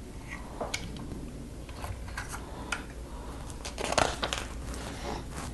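Small plastic Lego pieces clicking and clattering as they are handled and snapped together: a few scattered light clicks, with a busier run of clicks about four seconds in.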